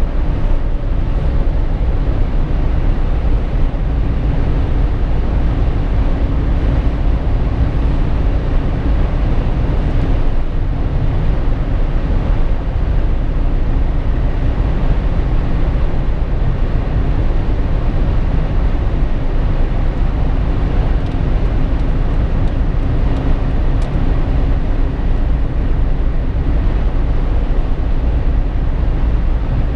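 Jeep Wrangler JK driving at steady speed, heard inside the cabin: a constant low rumble of tyre, engine and wind noise with a faint steady hum.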